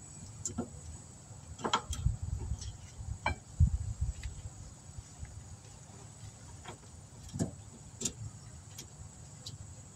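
Scattered light metallic clicks and taps of new brake pads and their hardware clips being handled and fitted on a disc brake, with a dull thump about three and a half seconds in.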